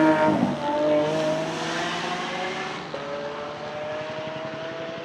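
Lamborghini Centenario Roadster's naturally aspirated V12 engine pulling under load, its pitch climbing steadily, with a brief break near the start and a small step about three seconds in.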